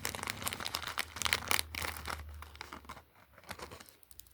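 Packaging crinkling and tearing as a parcel is unwrapped: dense crackling rustle for about two seconds, then thinning to scattered crackles.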